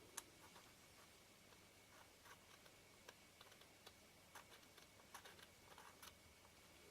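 Faint, scattered small clicks and light scrapes of small tools and lens parts being handled during lens disassembly and cleaning. A sharper click comes just after the start, then a run of soft ticks later on.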